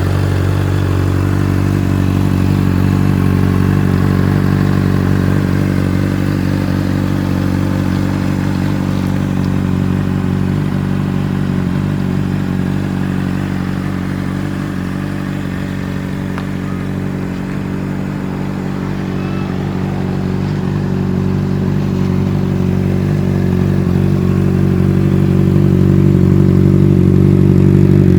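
Honda CBR600RR's inline-four engine idling steadily, a little quieter through the middle and louder again near the end.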